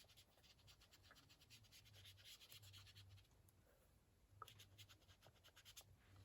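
Faint, quick scratchy rubbing of ink being dabbed and blended onto cardstock in rapid strokes, pausing briefly about three seconds in before starting again.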